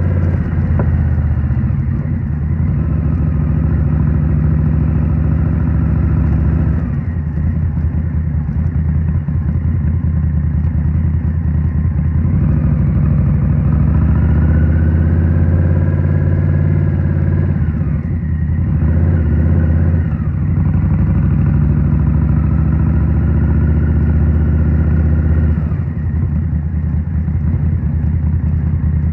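2023 Indian Scout Rogue's 69 cubic-inch V-twin running through a Rinehart slip-on exhaust while riding in town. Its pitch rises in several pulls under throttle and drops back sharply three times as the throttle closes.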